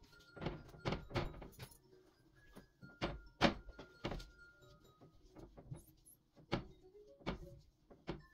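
Irregular knocks and thuds, about a dozen, from household items being handled and set down, the loudest about three and a half seconds in, over soft background music.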